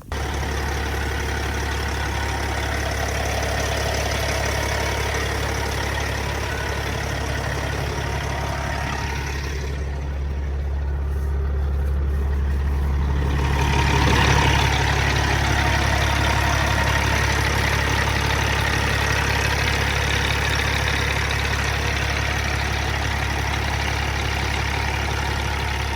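Peterbilt 379 semi truck's diesel engine idling steadily with a deep, even hum, running through 8-inch straight pipes, getting a little louder about halfway through.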